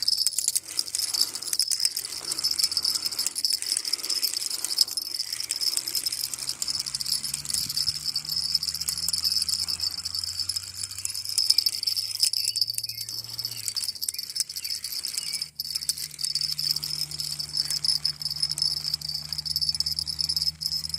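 Steady chorus of insects shrilling high without a break.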